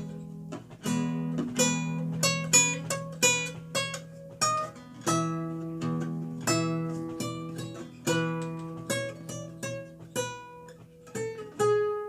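Renaissance lute played solo: a stream of plucked notes over held bass notes, each note a sharp pluck that rings and fades.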